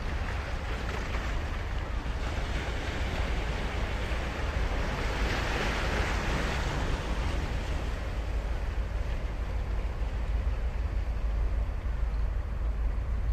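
Ocean surf breaking and washing up a sandy beach, one wave swelling to its loudest about halfway through, over a steady low rumble.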